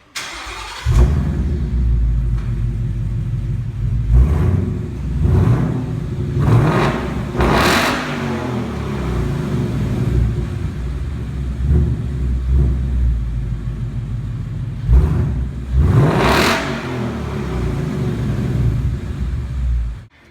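Ford Mustang GT 5.0 Coyote V8 running with no mufflers at all, its exhaust open behind the removed axle-back section. It is cranked and catches about a second in, idles with a loud, deep rumble, is blipped up several times, the biggest revs about eight and sixteen seconds in, and is switched off just before the end.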